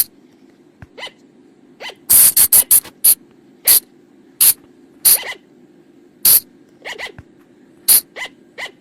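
Sunda colugo (flying lemur) calls: short, sharp, shrill calls repeated at irregular intervals, with a quick run of about six calls some two seconds in and fainter calls in between. A low steady hum runs underneath.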